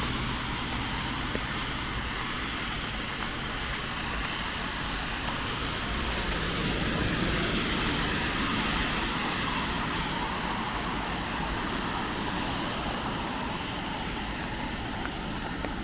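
Steady hiss of rain mixed with road traffic, a vehicle passing and swelling slightly louder about halfway through.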